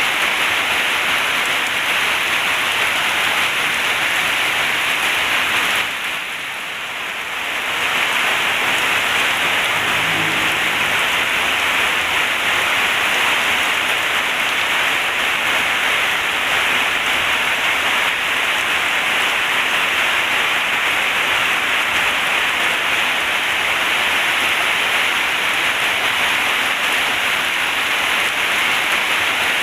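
Heavy rain falling steadily on a zinc roof, a dense even hiss that briefly softers for about a second around six seconds in.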